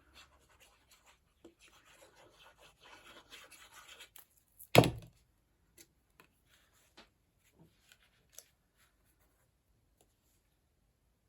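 Cardstock being handled and rubbed on a desk, with soft scraping and rustling for the first four seconds. About five seconds in comes one loud thump as the piece is pressed down onto the card, followed by a few light taps.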